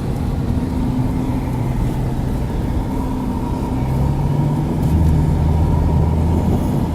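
Car engine running and road noise while driving slowly, heard from inside the car. The engine note shifts and gets a little louder about four seconds in.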